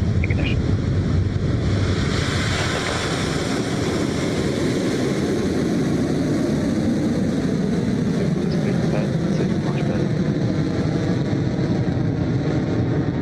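Rocket Lab Electron rocket's nine kerosene Rutherford engines at liftoff and climb-out: a loud, steady rocket roar with a deep rumble and crackle.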